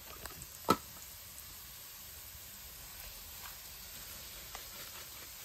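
Peanuts and potato cubes frying quietly in a stainless steel skillet with a soft, steady sizzle. About a second in there is one sharp click.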